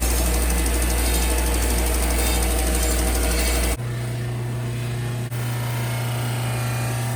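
A power tool's motor running steadily. About four seconds in, it changes abruptly to a different, higher steady hum.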